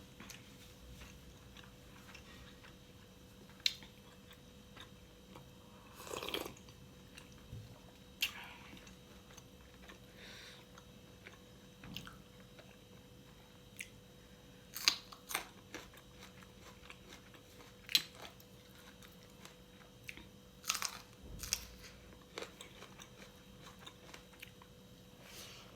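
A person chewing food close to the microphone, with irregular sharp crunches and mouth clicks every second or few seconds.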